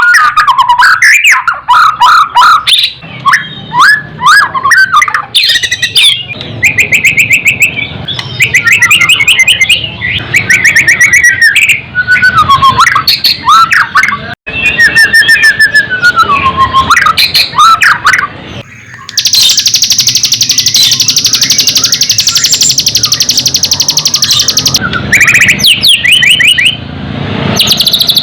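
White-rumped shama (murai batu) singing: a loud run of varied whistled phrases, quick trills and rising and falling notes, broken by a long harsh, high buzzing rattle from about 19 to 25 seconds in.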